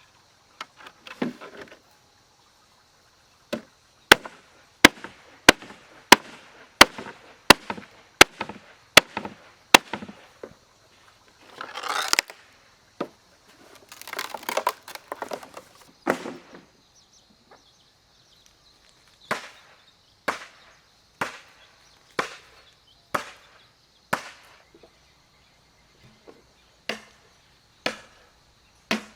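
Repeated chopping strokes with a blade: a fast run of sharp strokes, then a pause with rustling about halfway, then slower, evenly spaced strokes about once a second.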